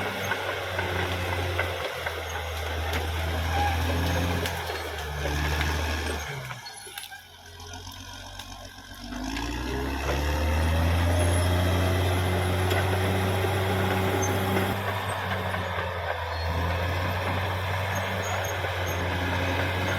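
Caterpillar D6R XL bulldozer's diesel engine running hard. It drops away for about two seconds midway, then revs back up and runs steadily again.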